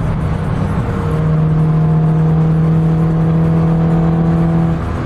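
Car engine and road noise heard from inside the cabin, with a steady droning hum that holds one pitch from about a second in and drops away near the end.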